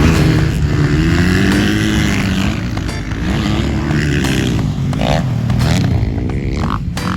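Several motocross dirt bikes running on the track at once, their engines revving up and falling back as they accelerate and shift, the pitches overlapping.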